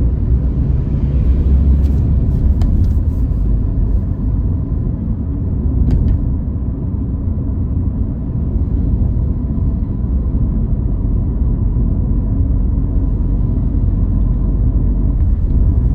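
Steady low rumble of a car being driven: engine and road noise, with a few faint clicks about two seconds in and again about six seconds in.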